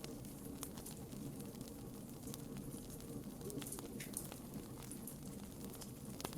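Wood bonfire crackling, with irregular sharp pops and snaps scattered through a steady low background.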